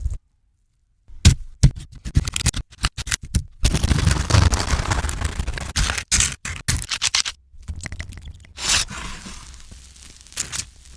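Crisp scraping and crackling of bread being worked, in short clips that start and stop abruptly after a brief silence near the start.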